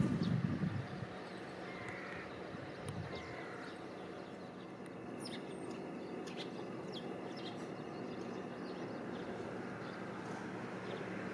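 A passing vehicle fades away in the first second. Quiet outdoor ambience follows, with birds calling in short chirps.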